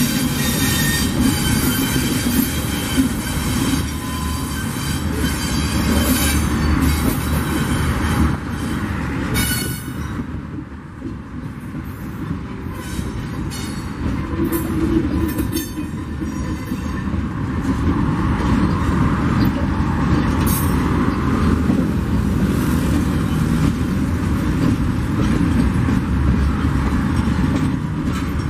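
Loaded mineral hopper wagons of a freight train rolling slowly past: a steady rumble of wheels with repeated clanks, and a metallic squeal from the wheels that is strongest in the first several seconds. The sound eases for a few seconds about ten seconds in, then picks up again.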